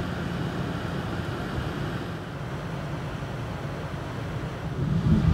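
Steady rushing noise of wind and rain in a storm, growing louder near the end.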